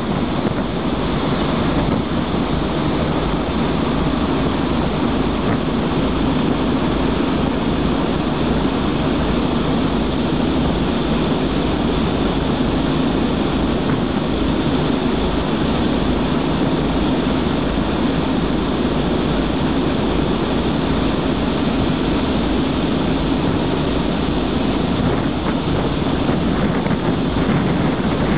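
Freight train of loaded open coal wagons rolling past at speed: a steady, unbroken rumble of steel wheels on rail.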